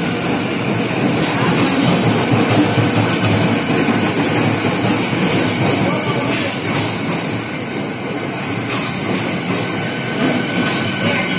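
Train 18 electric multiple unit arriving at a station, its coaches rolling past along the platform in a steady rumble of wheels on rail, with occasional clicks.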